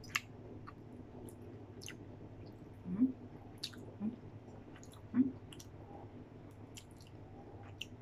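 Close-up chewing and mouth sounds of a person eating fried fish by hand. Soft clicks are scattered throughout, and brief louder mouth sounds come about three, four and five seconds in.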